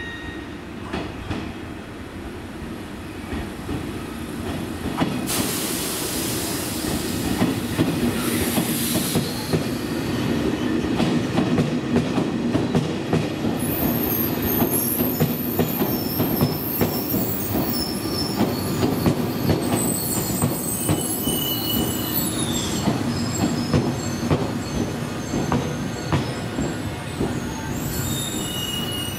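JR Shikoku 8000 series electric train arriving and braking to a stop beside the platform. It rumbles and clacks over the rail joints, with high-pitched squealing from about halfway through as it slows.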